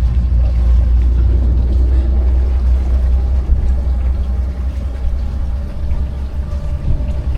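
Small tour boat's engine running steadily underway, a loud low drone.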